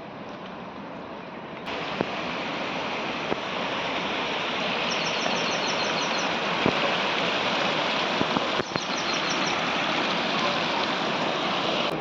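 Steady rush of monsoon water, a stream or waterfall in spate, which gets louder suddenly a couple of seconds in. A rapid, high chirping trill sounds twice over it.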